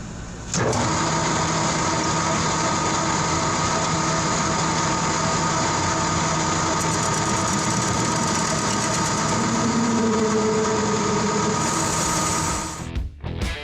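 A machine running steadily with a constant hum of several fixed tones. It starts abruptly about half a second in and cuts off near the end.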